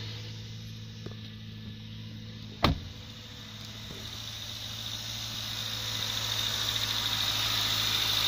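Subaru FB25 2.5-litre boxer engine idling steadily, its hum and hiss growing louder over the second half as the open engine bay is neared. A single sharp knock about two and a half seconds in.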